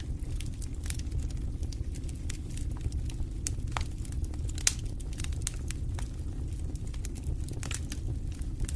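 Wood fire in a fireplace crackling: irregular sharp pops and snaps over a steady low rumble of the flames, with one louder pop a little past halfway.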